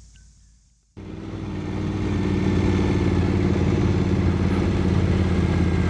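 Triumph Scrambler 900's parallel-twin engine running at a steady pitch, cutting in suddenly about a second in and building to full level over the next second.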